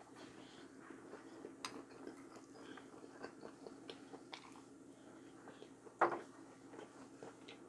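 Close-miked chewing of fried chicken and rice: soft wet mouth clicks and smacks, with a few light clicks of wooden chopsticks on the bowls. About six seconds in there is one brief, louder mouth sound.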